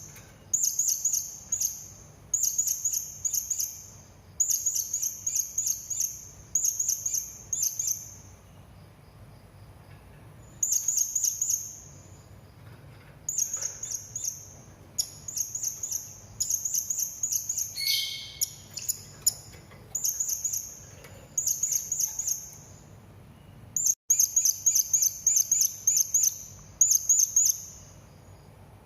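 Serindit (hanging parrot) calling: runs of rapid, very high, thin chirps, each about a second long, repeated again and again with short pauses between. Roughly two-thirds of the way through, a brief, lower call of a different kind cuts in.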